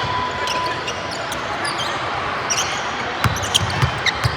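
Basketball dribbled on a gym floor, four bounces near the end, over a steady crowd murmur with short, high squeaks, likely from shoes on the court.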